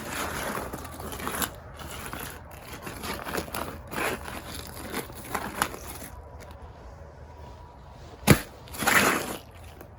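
Footsteps crunching and scraping over icy ground, uneven and irregular, with a sharp knock about eight seconds in.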